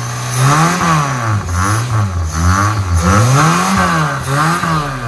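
A 2000 Maruti Esteem's carburetted four-cylinder petrol engine, its cylinder head freshly rebuilt, is revved in a string of quick throttle blips, about once a second, with the pitch rising and falling back each time.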